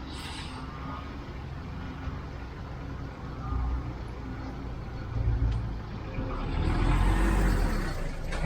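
Street traffic: motor vehicles running past on a wet road, a steady low rumble that swells a few times, loudest with a rising tyre hiss about seven seconds in as one passes close.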